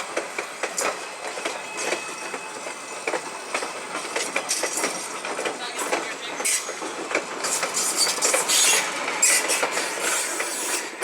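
Train rolling along the track, its wheels giving off a run of irregular clicks and rattles over the rails, growing louder with a brief hissing rise about eight to nine seconds in.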